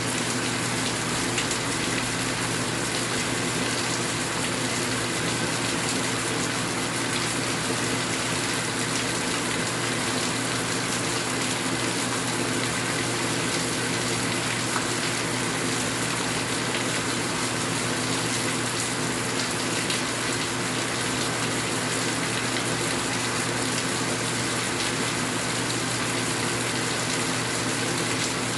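Steady heavy rain, a dense even hiss with no breaks, with a faint steady hum beneath it.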